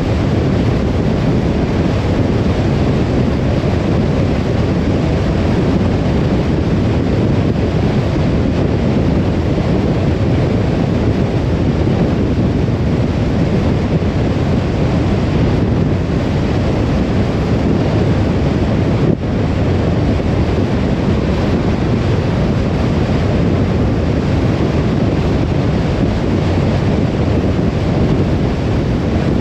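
Steady low rumble of a car driving on the road, tyre and engine noise without a break, with a brief dip in level about two-thirds of the way through.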